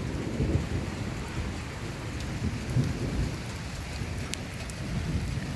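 Heavy rain falling steadily, a dense low rumbling hiss with scattered faint ticks of drops.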